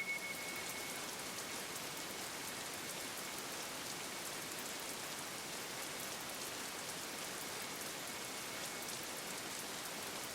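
Steady rain falling: an even hiss with scattered small drop ticks, and a faint high tone dying away in the first second.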